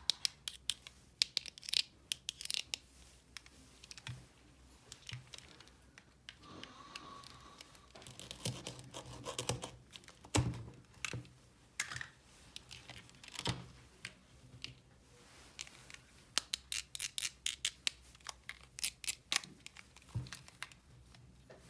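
Small toy pieces handled by hand: many sharp clicks and taps, with a stretch of rustling and tearing about seven to ten seconds in.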